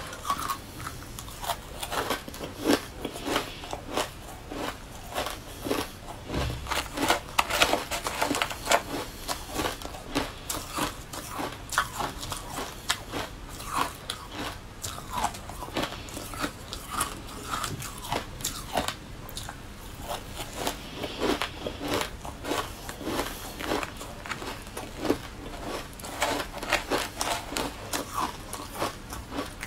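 Close-up crunching and chewing of a crunchy, crumbly green food, with many sharp, irregular crunches a second.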